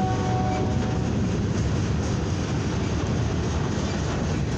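Freight cars of a passing train, tank cars and flatcars loaded with steel rail, rolling by at close range: a steady, loud rumble of steel wheels on the rails.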